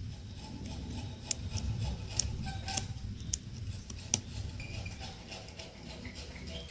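A handful of sharp clicks and snips, spread over a few seconds, above a steady low rumble.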